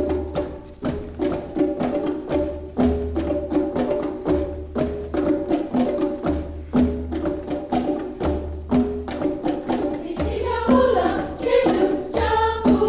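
Live music: the instrumental opening of a choir song, a repeating percussion pattern over pulsing bass notes, with the choir starting to sing about ten seconds in.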